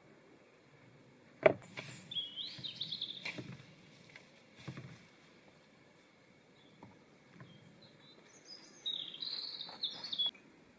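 A songbird singing two short, high warbling phrases, one early and one near the end. A single sharp knock comes just before the first phrase, with some low rustling in between.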